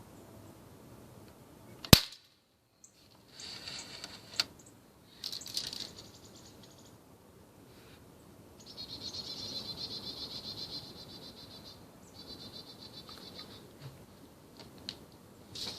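A single sharp crack of a Daisy Powerline 35 multi-pump air rifle firing, about two seconds in. High-pitched chirring comes in several bursts afterwards.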